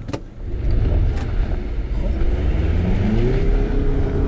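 Mazda CX-50's four-cylinder engine at full throttle pulling away from a standstill on a snow-covered road, in normal drive mode with traction control reining in wheelspin. A deep rumble builds, then the engine note rises in pitch from about two seconds in and holds high.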